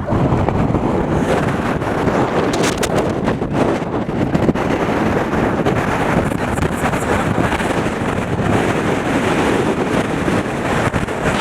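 Strong wind blowing across the microphone: a loud, continuous rush of wind noise, heaviest in the low end, that flutters and buffets without a break.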